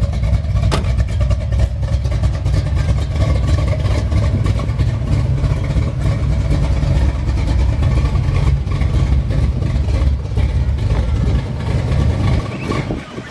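Car engine and exhaust running with a steady, heavy low rumble, with a single click about a second in; the rumble cuts off shortly before the end.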